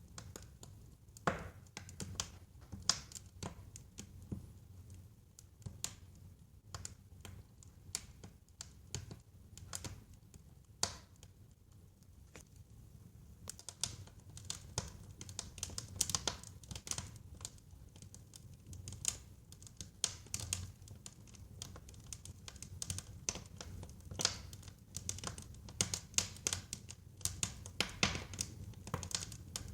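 Wood fire in a fireplace crackling and popping: irregular sharp snaps over a low, steady rumble of burning, the snaps coming thicker and louder in the second half.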